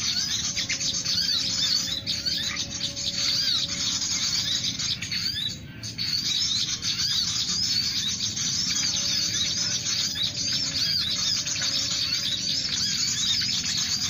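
Small songbirds chirping in the trees, a dense run of quick, high, repeated chirps. A brief lull comes near the middle.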